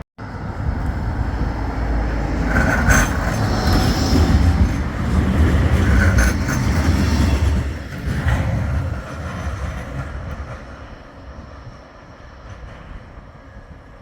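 Bombardier Flexity 2 tram running past on the tramway. Its rumble builds, stays loud for several seconds with a few sharp clicks from the wheels, then fades away.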